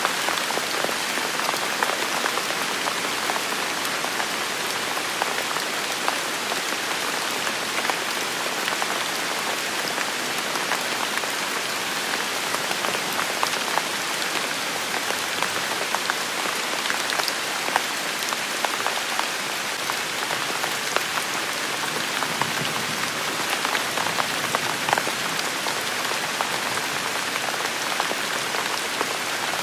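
Steady rain falling on a surface, an even hiss dotted with many small drop impacts.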